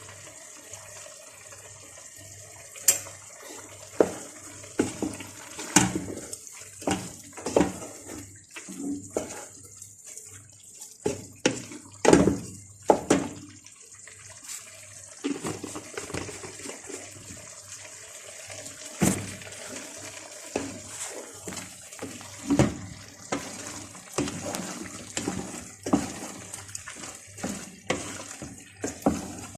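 A spoon stirring a thick, wet sauce in a cooking pot. It clinks and knocks irregularly against the pot over a steady hiss.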